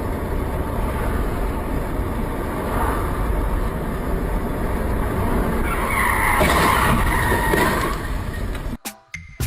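Car road noise recorded by a dashcam, then tyres squealing loudly for about two seconds from around six seconds in, under hard braking or a skid. The sound cuts off suddenly near the end.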